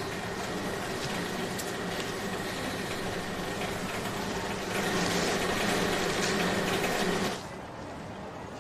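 Airport luggage-wrapping machine running as it wraps a split suitcase in plastic film, a steady mechanical hum that grows louder about halfway through and then cuts off suddenly near the end.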